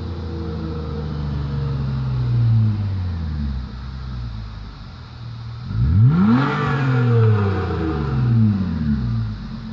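Toyota Avalon engine running through a muffler-deleted exhaust, its pitch falling in the first few seconds, then revving up sharply about six seconds in before the pitch falls away again.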